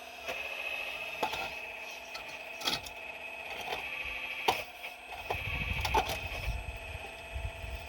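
4200XL excavator digging rocks: a steady mechanical whine with a series of sharp knocks and clacks as the bucket strikes stone, and a low rumble from about five seconds in.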